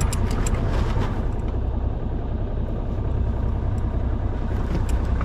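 A sailing yacht's inboard engine running steadily at low revs, a low hum, while the boat manoeuvres out of its berth. A few faint ticks sound near the start and again near the end.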